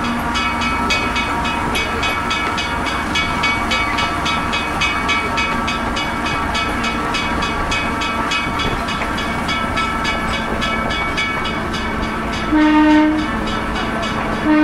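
A train running slowly, with a rapid, regular clicking throughout. A short warning blast from the train sounds about twelve seconds in, and another starts at the very end.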